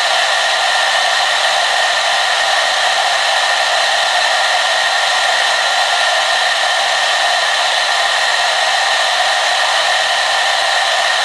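Hair dryer running continuously at one steady setting: an even rush of blown air, mostly in the middle and upper range with little low end, and no change in pitch or level.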